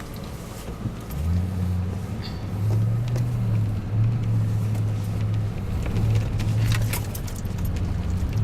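A motor vehicle's engine running close by: a low, steady hum that comes in about a second in and wavers slightly in level, with a few faint clicks near the end.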